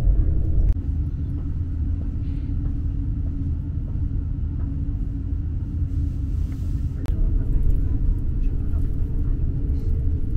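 Trenitalia double-decker regional train running at speed, heard from inside the carriage: a steady low rumble of the wheels on the track. About seven seconds in there is a sharp click, after which a steady low hum joins the rumble.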